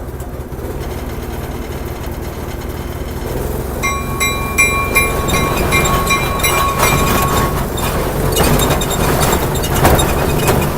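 Train running with a steady low rumble. From about four seconds in, a bell rings rapidly for a few seconds, then the rattle and clicking of the wheels on the track grows.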